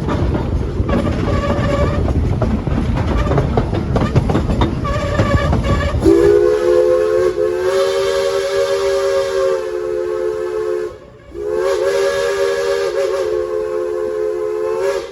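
Frisco Silver Dollar Line engine #504's steam whistle sounding a chord of several notes in two long blasts, the first starting about six seconds in, after a stretch of rumbling train noise.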